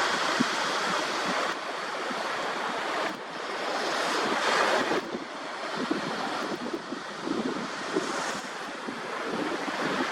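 Sea waves washing onto the shore, with wind buffeting the microphone; the hiss swells and eases every few seconds.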